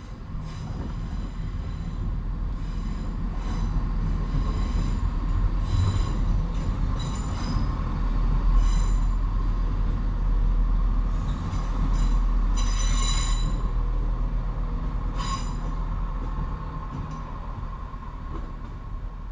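Class 170 Turbostar diesel multiple unit 170420 running past, its engines and wheels making a steady rumble that swells and then eases off. High-pitched squeals from the running gear come and go several times.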